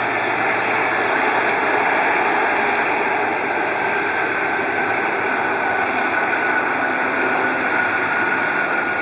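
Boeing 747-400's jet engines running steadily: a loud, even rush with a faint whine that drifts slowly lower in pitch.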